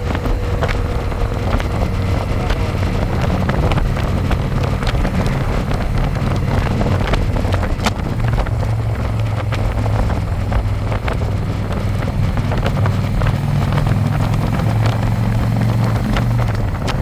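Harley-Davidson Electra Glide's V-twin engine running steadily while riding, heard from the back seat, with wind rushing over the microphone.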